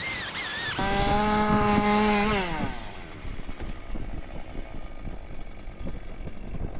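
A chainsaw held at full throttle, then let off so its revs fall away. It is opened by a brief high, wavering whine in the first second.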